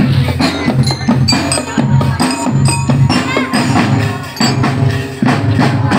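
Loud music with a heavy bass line and percussion, played through a parade sound system.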